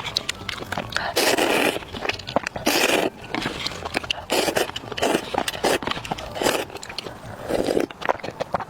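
Close-miked eating sounds: repeated bites and chewing, with several short hissing bursts and many crisp clicks and crackles.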